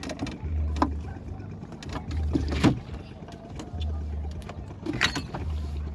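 Small boat moving on the water, with a low pulse coming round about every second and a half and a few sharp knocks in between.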